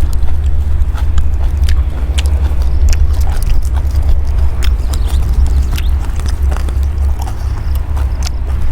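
A person chewing and crunching food close to the microphone, in short irregular crunches, over a steady low rumble.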